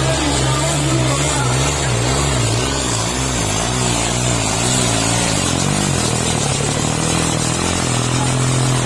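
Tractor diesel engine running hard under load while dragging a set of disc harrows, its pitch wavering up and down and then holding steadier near the end.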